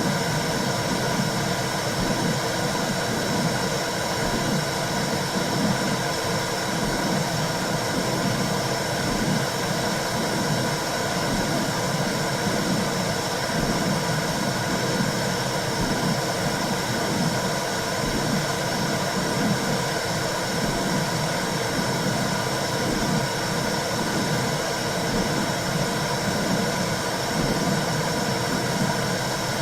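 Womb sound for soothing a baby: a steady whooshing noise with a fluctuating low rumble beneath it, used as white noise to calm a newborn.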